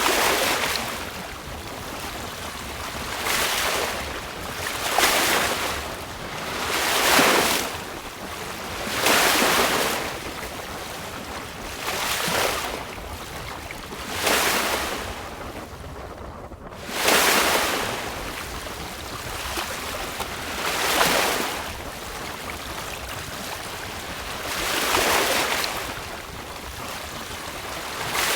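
Choppy seawater rushing and splashing against a moving sailboat's hull in repeated surges about every two seconds, over a steady wash of wind. A little past halfway the sound drops out briefly, then returns with a sudden surge.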